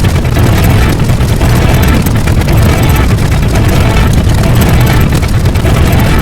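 Loud, dense, unbroken din of layered sound effects with a heavy low rumble.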